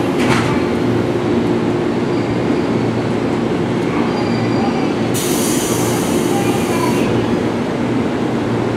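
JR 211 series electric train standing at the platform, its onboard equipment giving a steady hum. A short clack comes just after the start as the doors close, and about five seconds in there is a sharp hiss of air lasting about two seconds.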